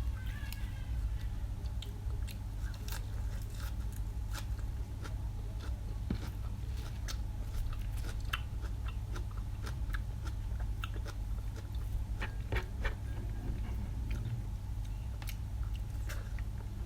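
A person chewing and biting food close to the microphone, with many short sharp clicks and crunches, over a steady low hum.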